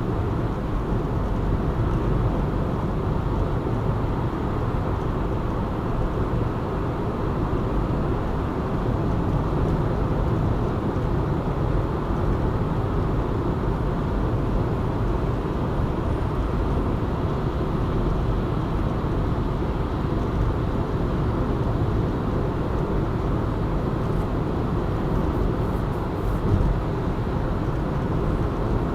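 A car driving at steady speed: even road and tyre noise with engine hum, strongest in the low range and unchanging throughout, with one brief knock about 26 seconds in.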